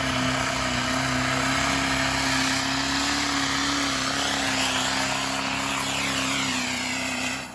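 Pulling tractor's engine running flat out at a steady, high pitch that barely changes; the sound cuts off abruptly near the end.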